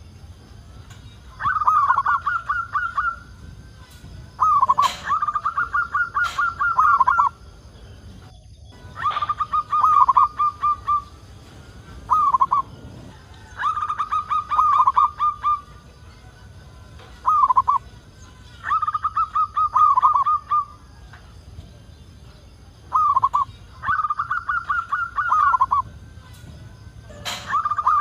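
Zebra dove (perkutut) singing: repeated cooing phrases every few seconds, each a short opening note followed by a quick rolling run of coos.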